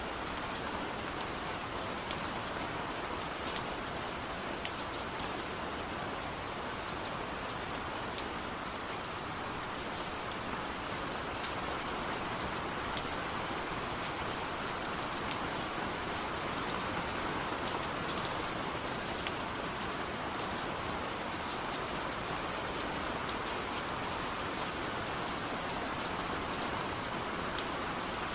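Steady light rain falling, an even hiss with individual drops striking sharply every second or so.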